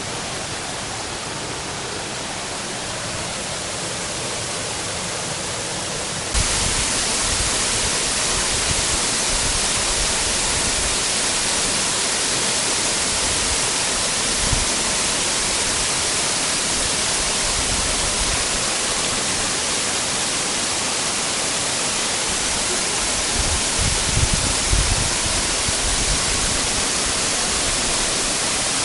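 Waterfall: a steady rush of falling water that becomes abruptly louder about six seconds in.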